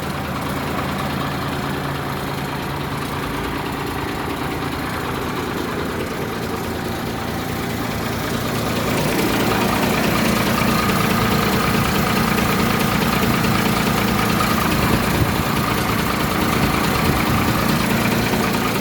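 Tata LPT 2515 truck's diesel engine idling steadily, growing louder about eight or nine seconds in and holding at the louder level.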